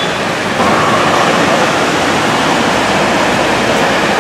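Heavy rain pouring down in a steady hiss that gets louder about half a second in.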